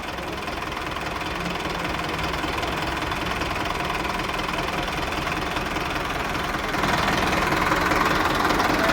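Tractor diesel engine running steadily, then getting louder about seven seconds in as it is worked harder while stuck in the field.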